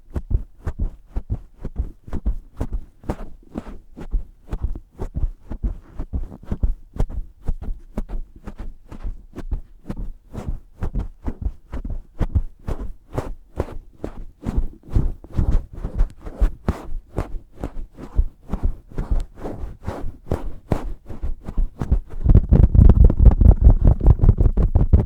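Cover on a Blue Yeti microphone squeezed rapidly and repeatedly, giving a fast run of muffled thuds and crackles about three a second. Near the end the squeezing gets louder and heavier.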